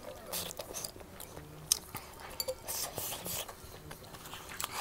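A person chewing and biting food close to the microphone: irregular wet mouth clicks and smacks with a little crunch.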